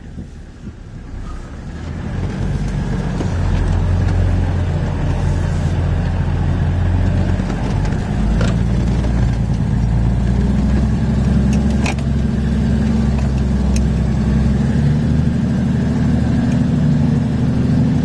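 Four-wheel-drive's engine running at low revs, heard from inside the cab. It grows louder about two seconds in and its pitch steps up slightly near the end, with a few light clicks over it.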